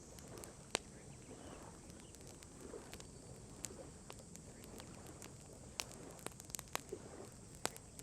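Wood campfire crackling: sharp single pops now and then, coming more often near the end, over a low steady background.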